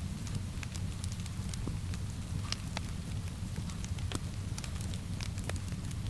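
Wood fire crackling in a fireplace, with many irregular sharp pops and snaps over a steady low rumble, mixed with a soft, even hiss of rain.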